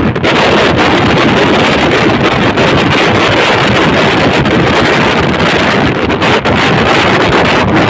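Wind rushing over the microphone, with the steady running noise of a passenger train moving at speed.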